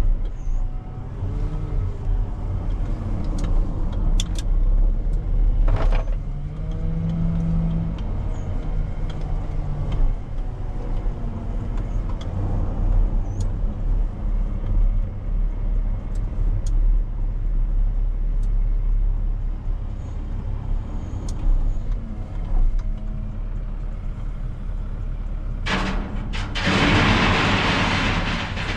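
Heavy diesel engine of a gravel-loading machine working, its pitch rising and falling as it revs under load. Near the end comes a loud rush of noise lasting about two seconds.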